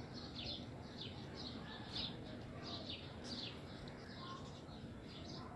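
Faint bird chirps: many short, high calls repeated irregularly over a low steady background hiss.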